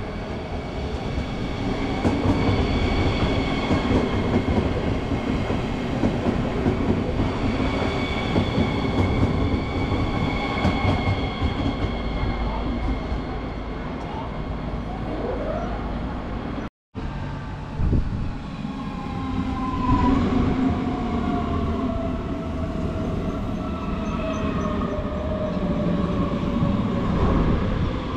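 Electric trains running on the rails, with steady high whining tones over the rumble of the wheels. Near the end of the second half a train's whine falls steadily in pitch. The sound drops out for an instant about two-thirds of the way through, at a cut between two trains, followed by a thump.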